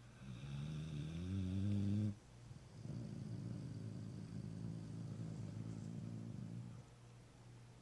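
Sleeping pit bull snoring: a pitched snore rising in pitch for about two seconds that stops abruptly, then after a short pause a longer, rattling snore.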